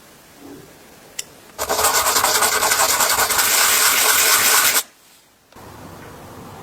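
A click, then a loud, harsh rasping, rubbing sound lasting about three seconds that stops abruptly.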